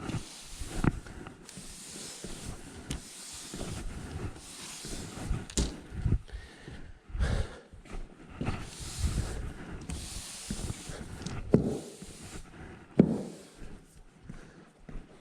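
Broom sweeping a floor: a run of swishing strokes, each about a second long, with a few sharp knocks between them.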